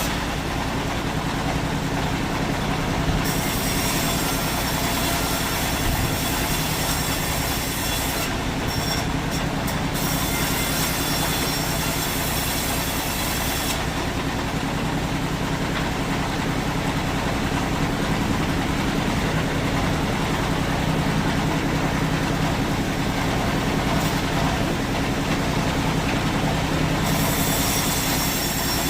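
Sawmill machinery running steadily, a continuous mechanical hum with a low droning tone.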